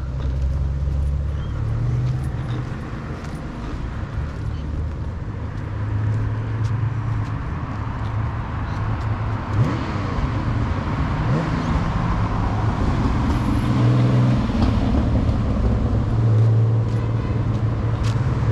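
Car engines running at low revs: a steady low hum that swells and eases, with a brief rise and fall in pitch about ten seconds in.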